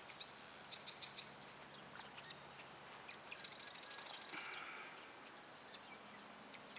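Faint bird calls: short bursts of rapid, high chattering notes, twice, over quiet outdoor ambience.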